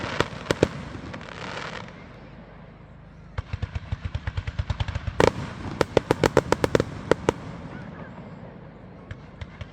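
Fireworks going off: a couple of sharp bangs and a short hiss, then a rapid string of crackling reports starting about three and a half seconds in, with the loudest bang in the middle of it, before it thins out near the end.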